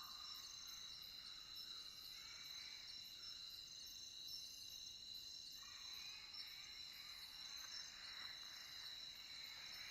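Night chorus of crickets: a faint, steady high-pitched chirring, with a quieter rapid pulsing above it.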